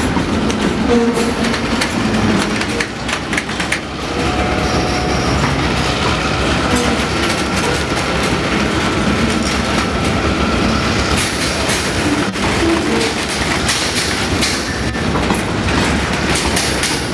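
Diesel locomotive B65, a Clyde-built B class, running with a train of loaded flat wagons rolling past. The wheels click over the rail joints. A thin squeal is faintly heard from about four seconds in to about eleven.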